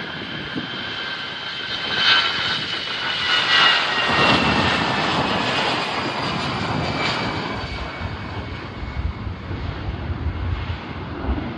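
A passing airliner's engines give a high whine that falls in pitch as the plane goes by. The sound is loudest about two to five seconds in, then fades to a lower rumble.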